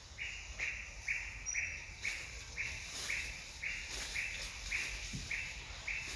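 A bird calling steadily: one short note repeated at an even pace, about twice a second, about a dozen times.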